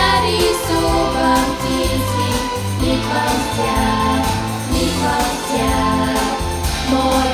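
A vocal ensemble singing a song together over instrumental accompaniment with a steady bass line.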